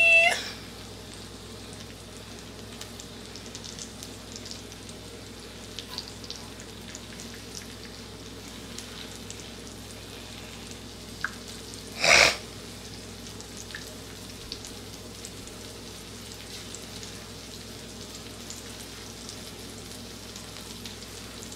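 Burger patties and onion slices frying on a griddle: a steady sizzle with faint scattered crackles. A brief louder burst comes about twelve seconds in.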